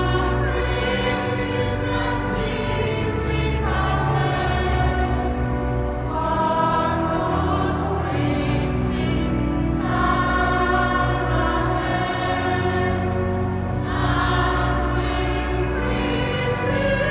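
A choir singing sacred music in long held phrases, with steady low notes sounding beneath the voices.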